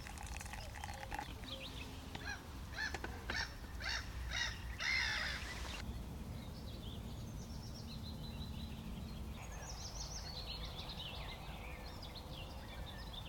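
Birds calling in woodland: a run of about six loud, harsh calls that ends abruptly, then thinner, higher chirps and short falling trills over a steady low background rush.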